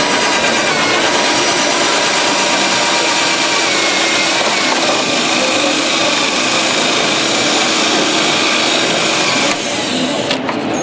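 An electric power tool, such as a sander or grinder, running steadily against car body panels: a continuous abrasive noise with a faint motor whine. It cuts out about a second before the end.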